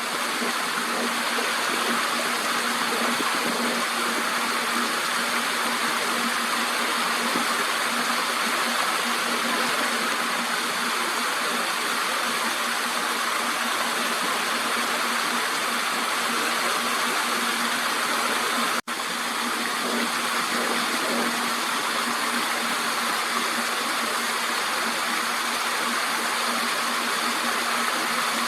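Steady mechanical hum: a constant low tone under an even hiss, with a very short break about nineteen seconds in.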